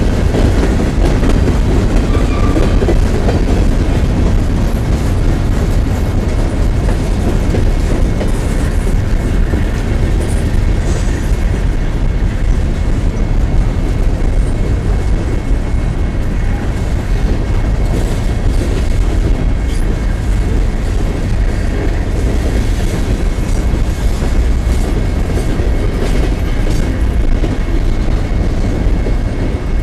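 Norfolk Southern open-top hopper cars rolling past close by: a loud, steady rumble of steel wheels on the rails with scattered clicks.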